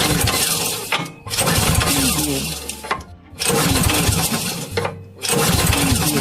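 Tractor engine being started, in four loud bursts of a second or two each with short pauses between; it is hard-starting after standing idle for about two months.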